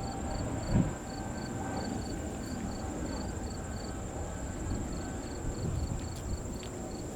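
Insects singing in late summer: a steady high-pitched drone with rhythmic short chirps a few times a second, over a continuous low rumble.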